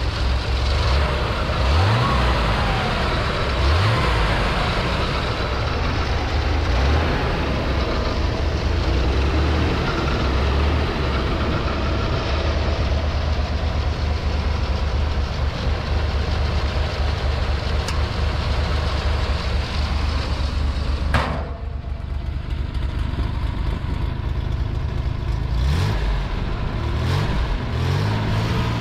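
The air-cooled flat-six of a 1963 Chevrolet Corvair Monza idling steadily, with a few short revs about two and four seconds in and again near the end. A sharp click about three-quarters of the way through, after which the sound drops briefly.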